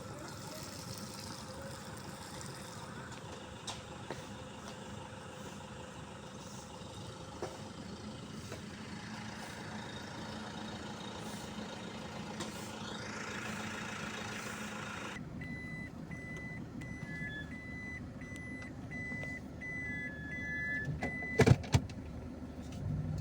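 Steady vehicle and street noise, then after an abrupt change a regular series of high electronic beeps, about two a second, like a vehicle's warning alarm. A few loud knocks come near the end.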